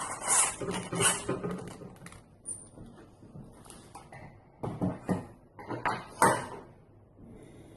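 Irregular light clicks, taps and scrapes of small screws and hand tools as a screw is fitted into an RC car's wheelie bar, with a few sharper clicks about a second in and again around five to six seconds in.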